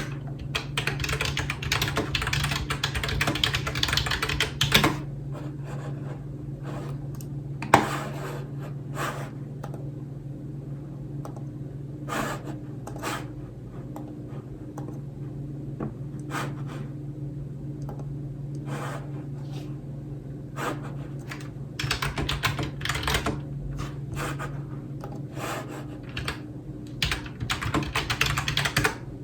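Typing on a computer keyboard. A fast run of clacking keystrokes fills the first few seconds, then scattered single key presses follow, and another fast run comes near the end.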